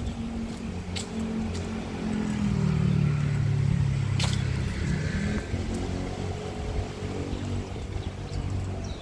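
A motor vehicle engine passes by, growing louder to a peak in the middle and then fading, with a few sharp clicks.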